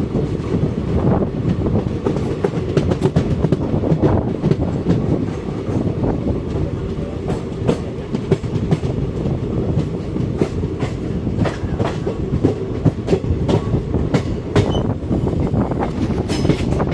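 Indian Railways goods train running past, its wagons' wheels rumbling and clattering over the rail joints in a rapid run of clicks.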